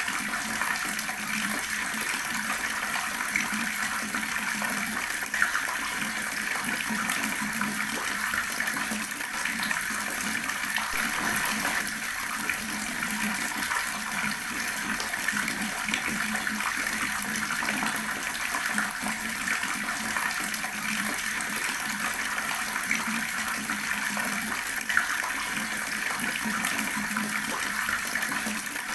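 Water tap running steadily, its stream splashing continuously, with a couple of slightly louder splashes.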